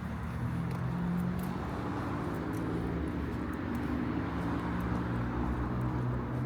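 Night street ambience with a motor vehicle's engine running close by, a low steady drone that wavers slightly in pitch, and faint light clicks scattered over it.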